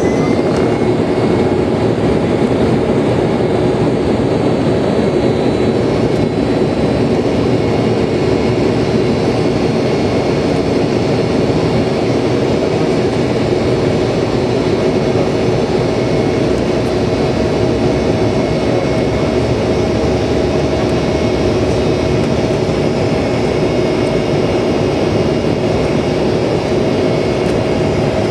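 Airliner's jet engines running at takeoff power: a loud, steady noise with a constant whine. A high tone rises in the first second, then holds level.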